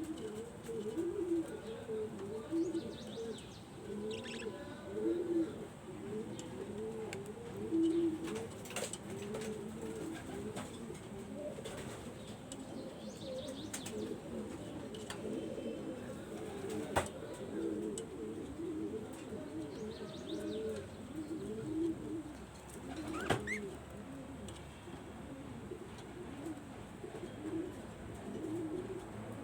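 Several pigeons cooing at once, their low calls overlapping without a break, with a few sharp clicks and an occasional short chirp over them.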